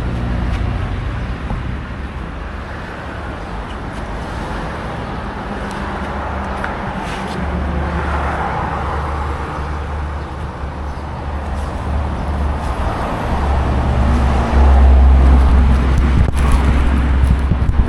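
Motor vehicle engine and road noise: a steady low rumble under a noisy hiss, growing louder about three-quarters of the way through.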